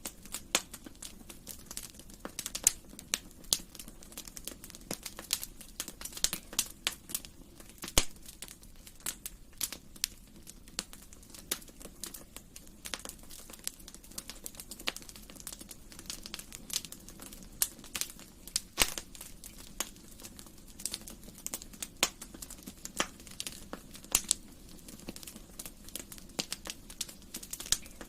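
Wood fire crackling in a fireplace: irregular sharp pops and snaps, several a second, over a steady low hiss of the burning fire.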